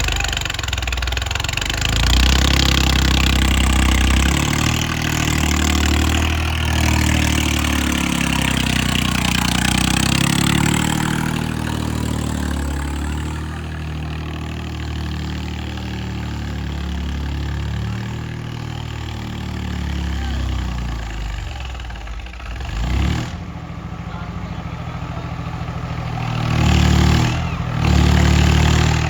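Diesel tractor engine working hard under load, loud and strained for about the first ten seconds. It then settles to a lower, steadier run, with two short revs near the end.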